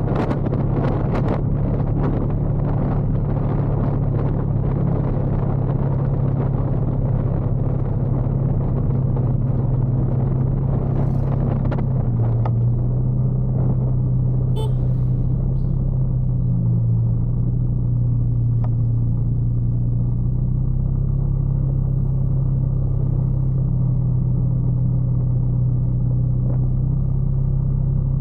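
Motorcycle engine running steadily under the rider, with wind and road noise that eases about twelve seconds in.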